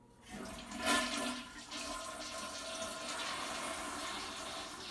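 Toilet flushing: the flush starts with a sudden surge of water about a third of a second in, loudest around a second in, then settles into a steady rush of water. It sounds pretty normal, with the newly replaced fill valve in place of the old noisy one.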